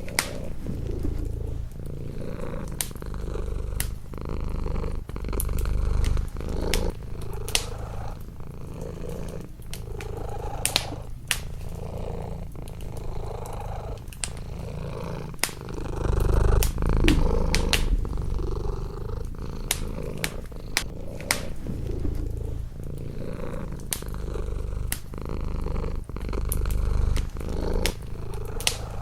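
A cat purring close up, a low rumble swelling and easing every few seconds with its breaths. Over it, a wood fire crackles with scattered sharp pops.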